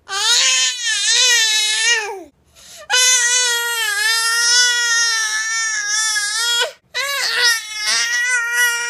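Baby crying hard: three long, wavering wails with short breaths between them.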